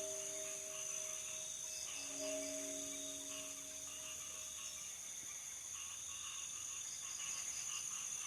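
Night insect chorus, crickets making a steady high-pitched trill. During the first half, a few low sustained tones sound over it and fade out near the middle.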